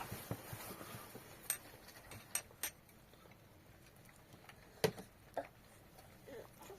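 A few separate light clicks and knocks, about five scattered over several seconds, over a faint steady hiss.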